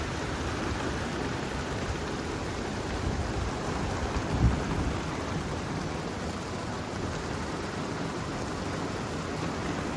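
Steady rain falling, with a brief low thump about four and a half seconds in.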